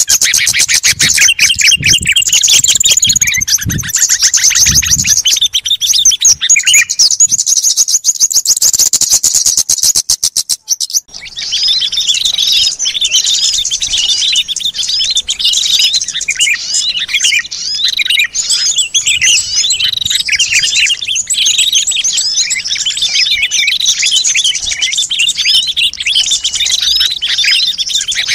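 A bird-lure recording of many small songbirds calling at once: a rapid trill of quick repeated notes for the first ten seconds or so, a brief break about eleven seconds in, then a dense chorus of overlapping chirps and twitters.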